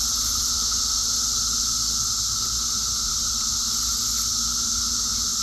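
Chorus of seventeen-year periodical cicadas: a steady, unbroken high drone from masses of insects in the trees.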